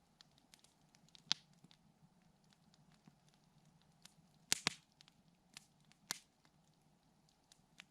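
Campfire crackling: irregular sharp snaps and pops from the burning wood, with the loudest cluster of pops about halfway through.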